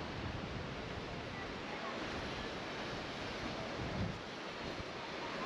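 Steady rushing of water and wind, with wind buffeting the microphone low down, heavier in the first part.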